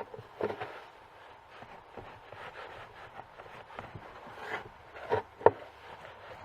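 Scattered knocks and light scraping from handling a chainsaw boot while a waterproofing treatment is worked into it, with two sharper knocks about five seconds in.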